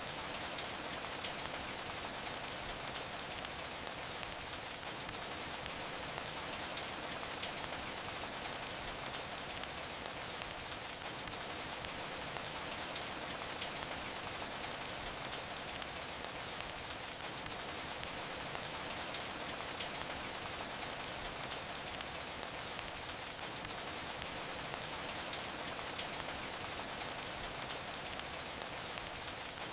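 Steady rain hiss with a wood fire's crackle over it: many small sharp pops, and a louder pop about every six seconds.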